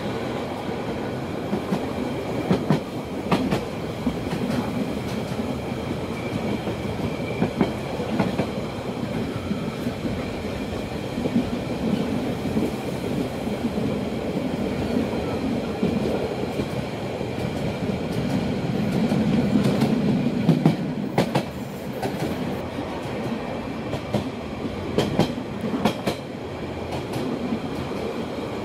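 Rhaetian Railway metre-gauge train running along the track, heard from an open carriage: a steady rumble of wheels on rails with scattered clicks and knocks, swelling in loudness a little past halfway.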